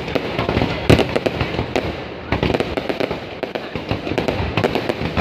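Fireworks going off in quick succession, with many overlapping bangs and crackles and a loud bang about a second in.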